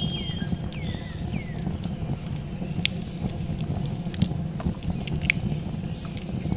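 Small birds chirping with short falling calls, mostly in the first second or so, over a steady low rumble and scattered sharp clicks.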